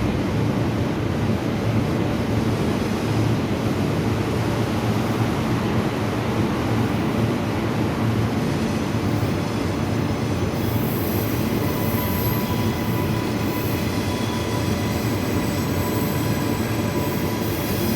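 A passenger train running through the station, a steady rumble of wheels and traction. From about ten seconds in, high-pitched wheel or brake squeals ring over it.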